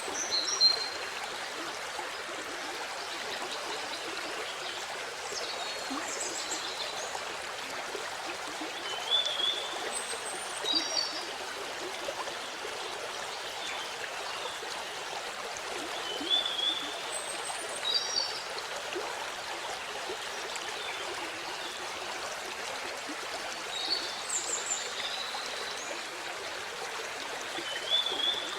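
Waterfall: a steady rush of falling water, with short high chirps coming in pairs every few seconds over it.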